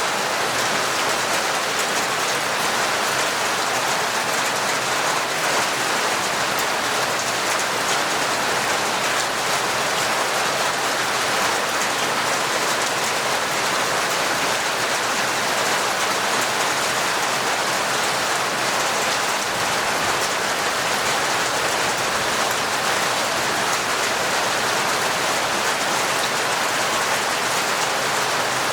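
Torrential rain falling steadily: a dense, even hiss of countless drops, with no breaks or letting up.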